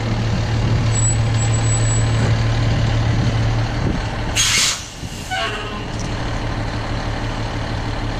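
Fire truck engine idling with a steady low hum, then a short loud air hiss from the air brakes about four and a half seconds in.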